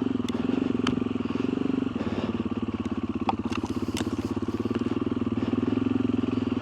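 Motorcycle engine running steadily at low revs with an even pulse, as the bike is ridden slowly down a rough track, with a few sharp clicks over it.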